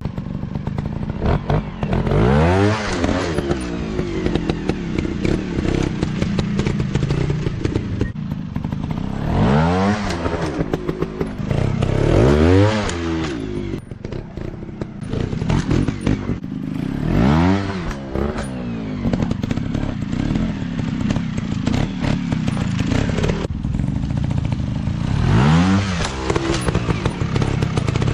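Dirt bike engine revving in bursts, its pitch climbing and dropping back about five times, with clattering and crackling running underneath.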